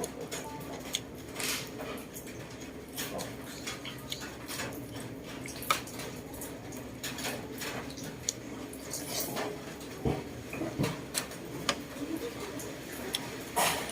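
Eating utensils clinking and tapping against a bowl while someone eats: an irregular scatter of short, sharp clicks over a low steady hum.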